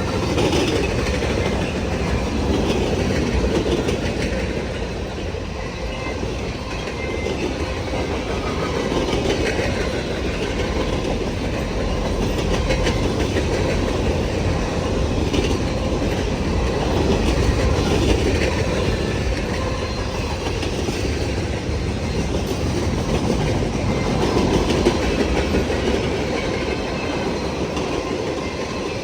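Freight cars of a long CN freight train rolling past steadily, the wheels clicking and clacking on the rails.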